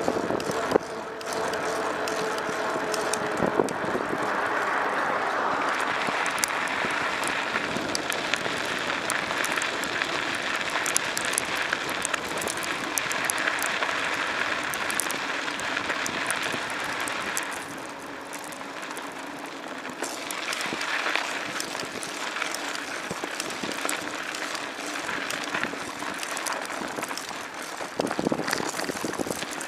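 Steady rushing noise of travel along a road, wind and tyre noise, with faint rapid ticking throughout; it eases a little about two-thirds of the way through.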